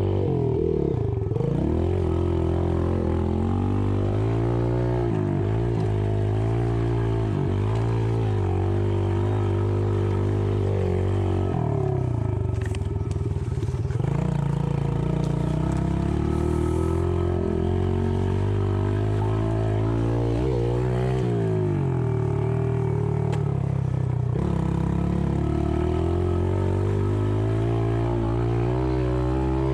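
Dirt bike engine revving up and down again and again as the bike is ridden around a dirt track, the pitch climbing and dropping every second or two.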